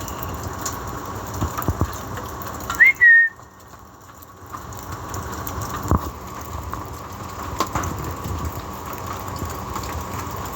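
A short whistle about three seconds in, rising briefly and then holding, over a steady outdoor hiss with a few faint clicks.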